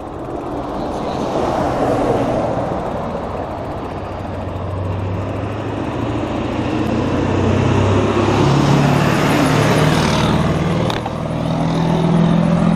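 A car's engine running close by at low speed, its note stepping up a little past the middle.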